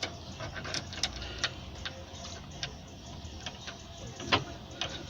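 Irregular light metallic clicks and taps as fittings and tools are handled while a gas water heater's burner assembly is being reconnected, with one sharper knock about four seconds in.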